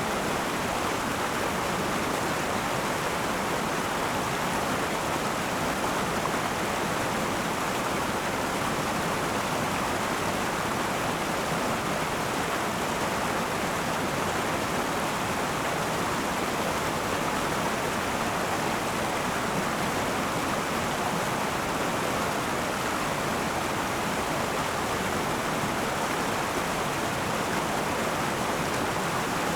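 River water flowing over rocks: a steady, even rushing of a fast stream.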